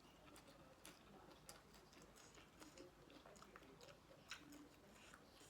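Near silence with faint scattered clicks of someone chewing food.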